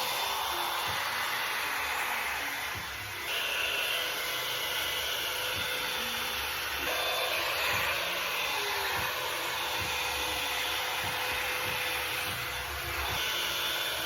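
Hot-air dryer brush blowing steadily: a continuous rush of air with a faint steady motor whine, dipping briefly about three seconds in.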